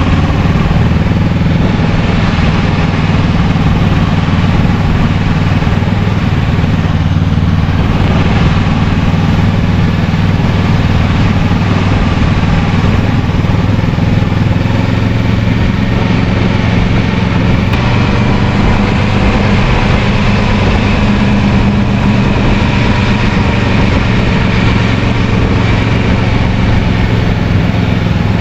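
Kawasaki Versys 650's parallel-twin engine running at a steady pace while riding, mixed with steady wind rush.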